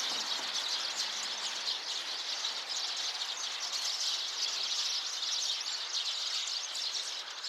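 A flock of Eurasian tree sparrows chirping together: a dense, steady chatter of many short, overlapping chirps.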